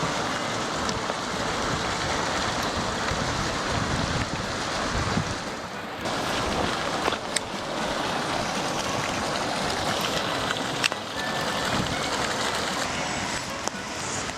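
Steady rushing noise of waves and wind, with a few faint sharp clicks.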